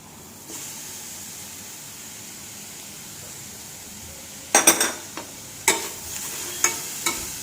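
Onion and carrot masala sizzling steadily in a frying pan. From about four and a half seconds, a spatula scrapes and knocks repeatedly against the pan as the masala is stirred.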